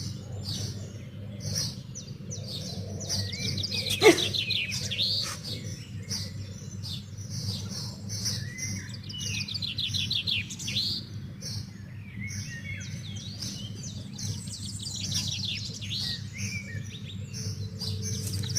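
Birds chirping and trilling in quick high-pitched runs over a steady low hum. About four seconds in, one loud call sweeps sharply down in pitch.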